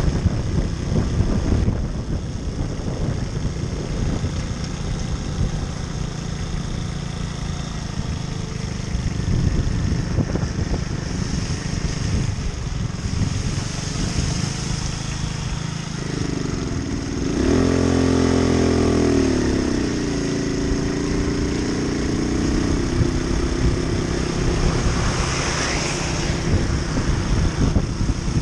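Moped engine running under way, with a steady rushing noise over it. About seventeen seconds in the engine note climbs and falls as it revs, then holds a steadier pitch.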